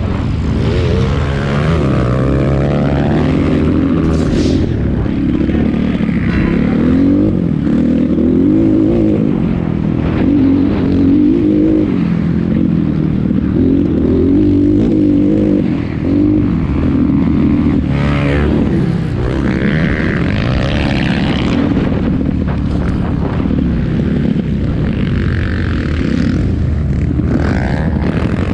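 Motocross bike engines racing, revving up and down repeatedly as riders accelerate and shift around the track.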